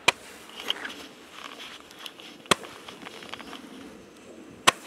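Fireworks going off: three sharp bangs about two seconds apart, with faint crackling between them.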